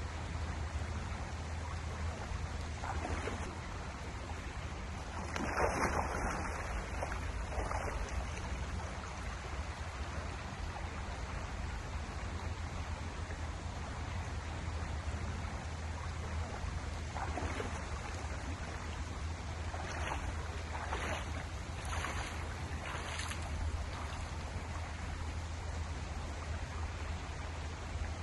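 Steady rushing of a flowing river, with a few short louder noises over it: one about six seconds in and a cluster of four between twenty and twenty-four seconds.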